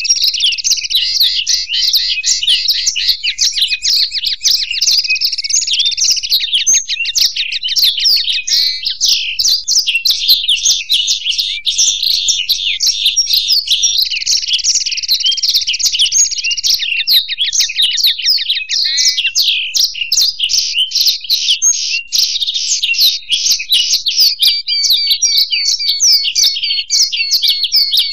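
Blackthroat (black-throated canary) and goldfinch singing without pause: a dense stream of rapid twittering, chirps and fast trills. A long buzzing trill comes at the start and again about a quarter of the way from the end.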